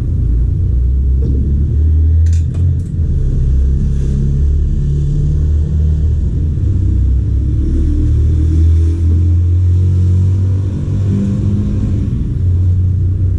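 A loud, continuous low rumble, with a few short sharp clicks about two and a half seconds in.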